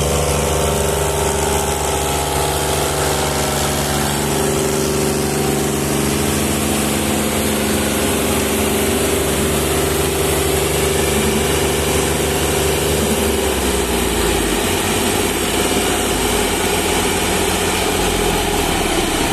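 Massey Ferguson 385 tractor's diesel engine running steadily. About two-thirds of the way through, its note shifts lower as the engine speed changes.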